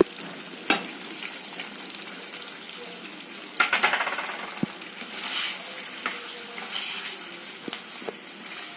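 Thick egg korma gravy sizzling in a frying pan, with a few sharp clicks of a spatula against the pan. About three and a half seconds in there is a louder crackling burst as crumbled dried fenugreek leaves (kasuri methi) are sprinkled in.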